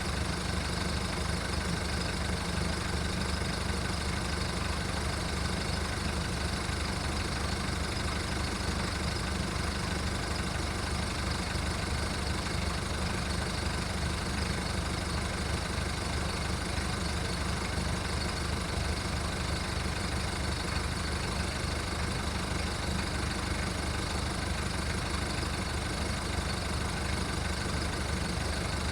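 VW Golf mk1's 1.9 turbo diesel idling roughly and steadily while it warms up after a cold start.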